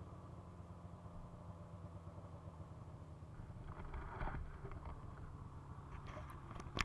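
Ski-Doo MXZ 600 carbureted two-stroke snowmobile engine running low and steady. A brief clatter comes about four seconds in, and a sharp click near the end.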